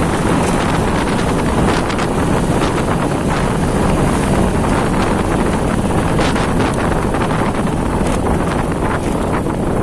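Motorcycle riding along a street: steady wind rush on the microphone over the running engine.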